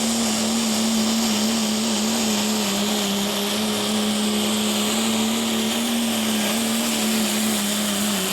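Diesel pickup truck engine held at high, nearly constant revs under full load, pulling a weight-transfer sled: a steady drone with a slight waver and a dense hiss over it.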